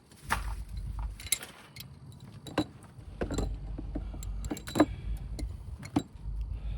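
Scattered clicks and knocks of hand tools and parts being handled while changing spark plugs, over a low rumble.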